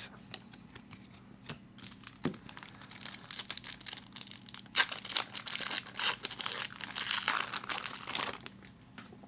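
Hockey card pack wrapper being torn open and crinkled by hand, a busy run of short rustling crinkles that builds up after the first second or so, is loudest through the middle and dies away near the end.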